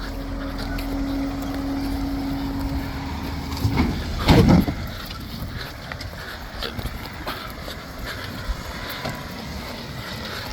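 BMW 530d's diesel engine running with a steady hum that stops about four seconds in, followed at once by a short, loud cry.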